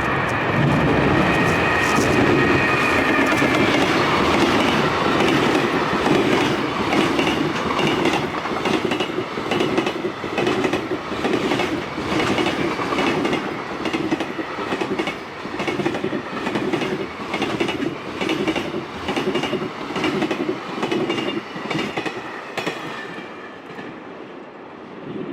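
Freight train passing close by. Its electric locomotive's motor whines steadily for the first few seconds, then the wagons' wheels clatter rhythmically over the rail joints, fading away near the end.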